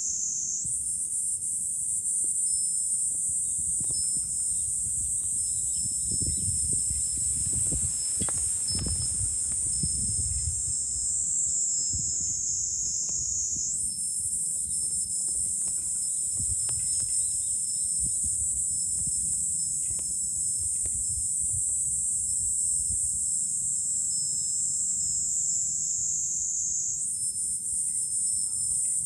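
Cicada chorus: a continuous high, buzzing drone that starts afresh about every 13 seconds, jumping up and then sliding slowly down in pitch through each phrase. Low wind rumble lies underneath, swelling around a third of the way in.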